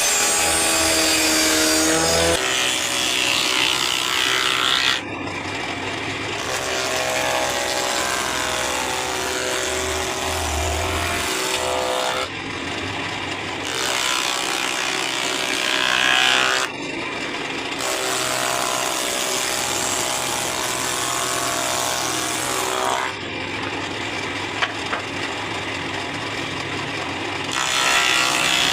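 A handheld electric power tool working wood in about five passes of several seconds each. Its motor whine shifts in pitch under load, and each pass ends with a harsher hiss before dropping away suddenly.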